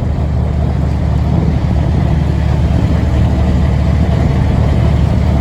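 A narrowboat's engine running steadily under way, loud and low-pitched.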